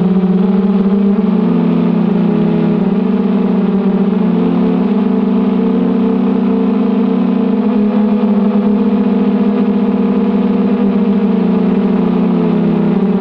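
Brushless motors and propellers of a 250-size FPV racing quadcopter buzzing steadily in flight, the pitch shifting slightly up and down with the throttle.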